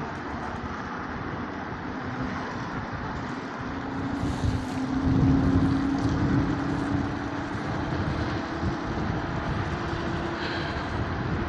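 Street traffic with wind rumbling on the microphone and a steady low hum that comes in about four seconds in, swelling briefly soon after.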